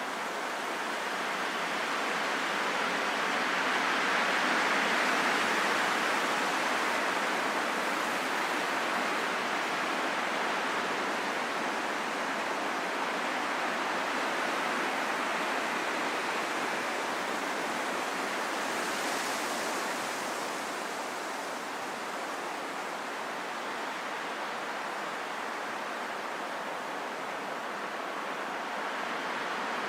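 Steady wind noise, an even hiss that swells gently about five seconds in and slowly settles.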